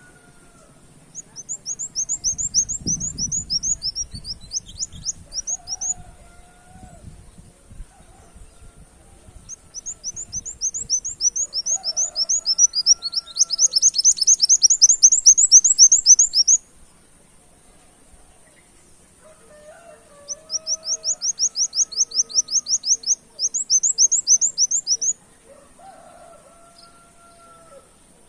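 Kolibri wulung sunbird singing in bursts of fast, chattering trills of rapidly repeated high notes, in a canary-like style. There are three bouts, and the middle one is the longest and loudest.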